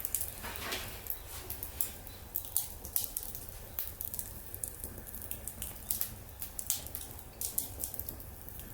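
Wood fire in a fire-pit stand crackling, with irregular sharp pops and snaps several times a second over a low steady hum.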